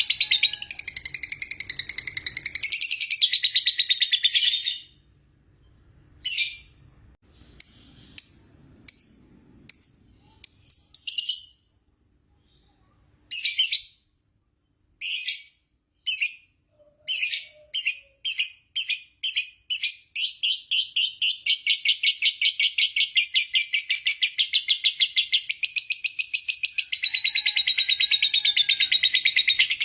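Lovebird 'ngekek': a rapid, high chattering trill of many short notes. It runs unbroken for about the first five seconds, then breaks into short bursts with gaps, which speed up and run together into one long unbroken trill from about twenty seconds in.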